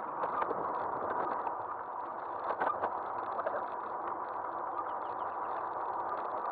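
Riding noise of an electric bike recorded from a camera on its front end: a steady rush of wind and tyres on pavement, a faint steady whine, and many small rattles and clicks, with a brief louder clatter about two and a half seconds in.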